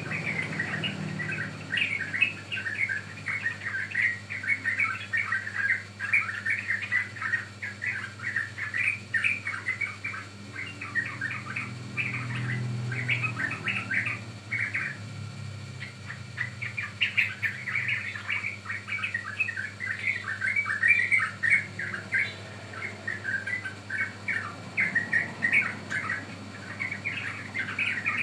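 Yellow-vented bulbul (trucukan) chattering, a rapid run of chirps that goes on almost without a break, with a short lull a little past halfway, over a low steady hum.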